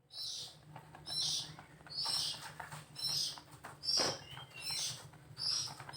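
A bird's short, harsh chirp repeated about once a second, over a steady low hum. A single knock sounds about four seconds in.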